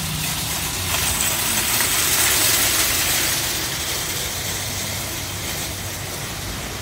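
Rainy parking-lot ambience: a steady hiss of rain and wet pavement over a low engine hum, the hiss swelling about a second in and easing off after about three seconds.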